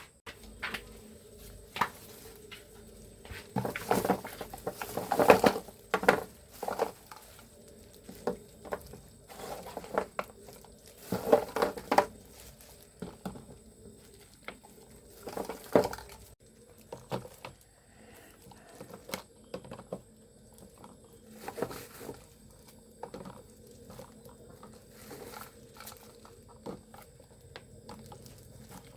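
Irregular knocks, taps and clatter at an uneven pace, loudest in clusters about four to six seconds in, around eleven seconds and around sixteen seconds, over a faint steady hum.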